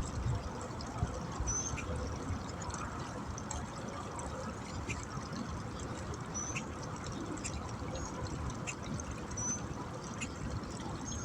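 Steady rushing noise, like running water or wind, with a short high rising chirp repeating every second or two.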